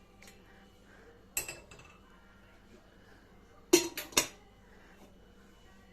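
Clinking of dishes and cutlery: one sharp clink about a second and a half in, then three quick, louder clinks close together around four seconds in.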